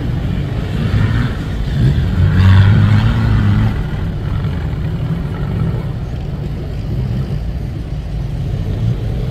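An off-road vehicle's engine running and revving, loudest about two to three and a half seconds in, then running more steadily.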